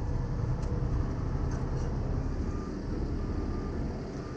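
Steady low rumble of vehicle engines and road traffic. About halfway through, a vehicle's reversing alarm starts beeping, with a beep roughly every half second.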